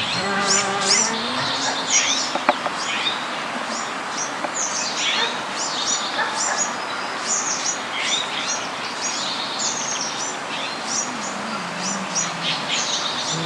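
Small birds chirping: many short, high chirps in quick, irregular succession, often overlapping, over a steady outdoor background hiss.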